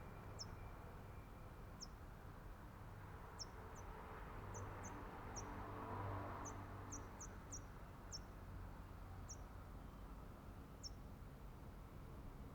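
A small bird giving short, very high, thin chirps, each a quick downward slide, about fifteen of them at an irregular pace over a faint background hiss.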